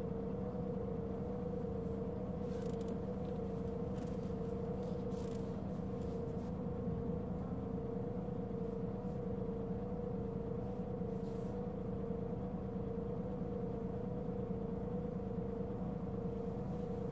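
Inside a Mitsubishi Fuso Aerostar city bus (LKG-MP37FK), its diesel engine running steadily with a loud, constant whine held at one pitch over the engine rumble. This bus was known for a considerable abnormal noise.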